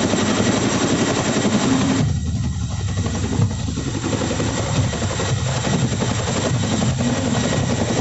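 Chinook tandem-rotor helicopter running close by with a steady, loud noise from its rotors and turbines. About two seconds in, the higher hiss drops away abruptly and mostly the low rumble remains.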